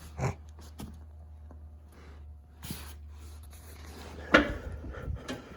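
A steady low hum with scattered light clicks and knocks, then one loud clunk about four and a half seconds in, after which the hum stops.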